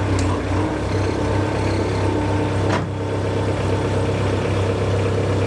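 Sawmill engine running steadily with a low hum, with one short click partway through.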